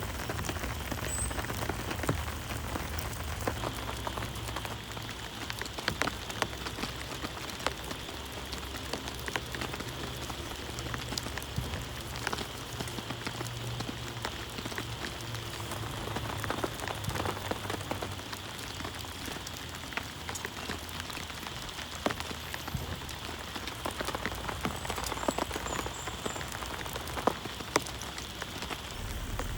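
Heavy rain falling steadily on a surface, with many sharp individual drop impacts ticking through the downpour.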